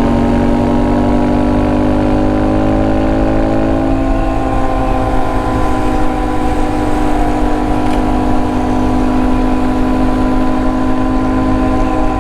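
A Honda Monkey 125's single-cylinder four-stroke engine running under way. Its pitch climbs steadily for about four seconds as it accelerates, then holds steady over a low rush of wind.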